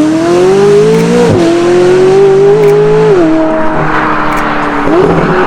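2020 Aston Martin Vantage's twin-turbo 4.0-litre V8 through a straight-piped Quicksilver exhaust, pulling hard. The note climbs and then drops at a gear change about a second in, climbs again and drops at a second shift about three seconds in, then holds before rising briefly near the end.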